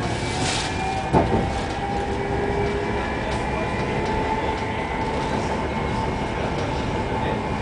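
Tram running on the rails, heard from inside the car: a steady rumble of the wheels with faint squealing tones, and a sharp knock about a second in.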